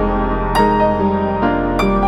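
Background music: soft, slow piano-led new-age track, with a new note struck about half a second in and another near the end.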